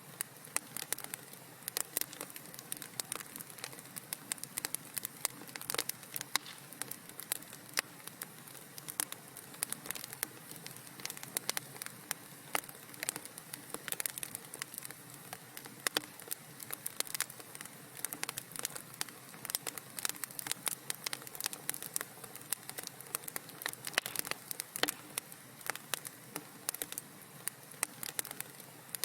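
Fireplace fire crackling: a dense, irregular stream of small pops and snaps over a soft hiss.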